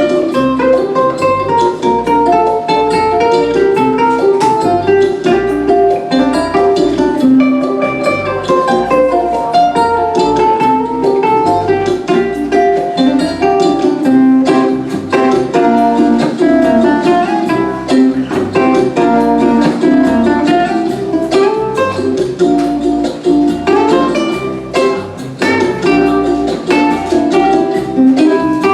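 Fingerstyle ukulele playing a quick, plucked instrumental melody over a recorded backing track, with a bass line stepping underneath.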